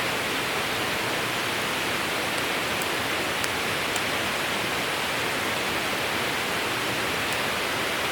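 A steady, even rushing noise, with a few faint clicks scattered through it.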